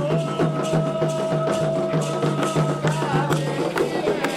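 Candomblé ritual music: drums and hand percussion keep a fast, even rhythm while one long note is held for nearly three seconds, then a short wavering phrase follows.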